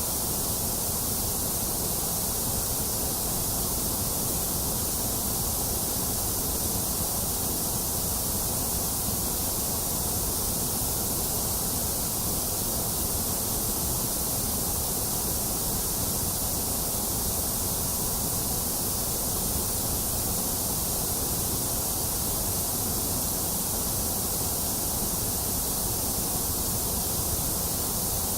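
Steady synthetic white noise, an even hiss that does not change, strongest in the high treble, with a dip in the upper midrange.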